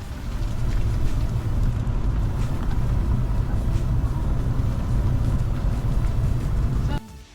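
Steady low rumble of a vehicle driving along, heard from on board, cutting off suddenly near the end.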